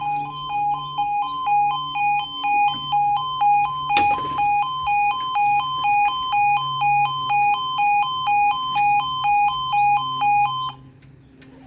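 Level crossing's two-tone yodel warning alarm, alternating between two pitches about one and a half times a second while the crossing closes for a train. It cuts off suddenly near the end. A brief knock comes about four seconds in.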